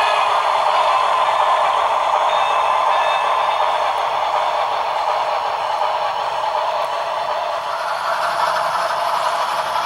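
HO scale model Shay locomotive running on track, a steady rattling clatter.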